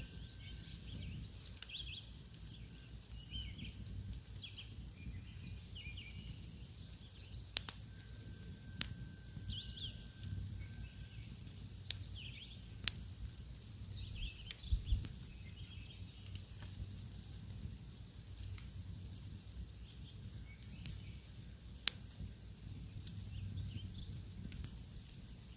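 Campfire burning with scattered crackles and several sharp pops, while small birds chirp in the background.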